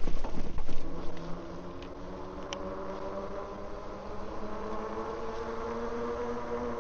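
Steady whine of a small motor, several tones drifting slightly in pitch, after a loud rough rush of noise in the first second and a half.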